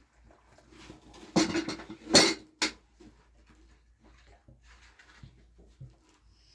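A short cluster of clattering knocks from hard objects being handled, loudest about two seconds in, then a few faint scrapes and taps.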